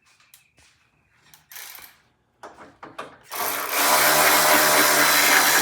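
A few light clicks and knocks, then about three seconds in a handheld power tool starts up and runs steadily and loudly on fasteners.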